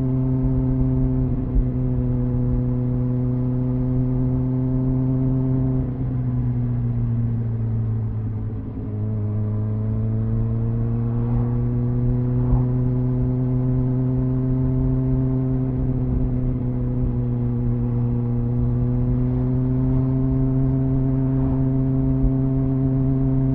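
Triumph Speed Four's 600cc inline-four engine on its stock exhaust, running at steady cruising revs. About six seconds in, the revs sag, then climb back and hold steady.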